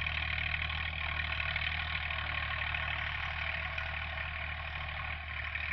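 Massey Ferguson tractor engine running steadily at a constant speed, a low even hum with no revving.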